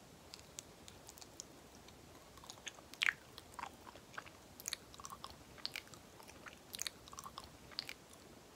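Close-up, wet and sticky mouth sounds of someone chewing soft banana: irregular smacks and clicks a few times a second, with the loudest smack about three seconds in.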